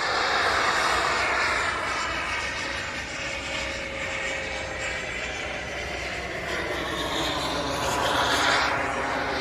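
Radio-controlled model aircraft flying overhead, its engine a steady whine whose pitch slides down over the first few seconds and climbs again near the end as the plane passes and turns.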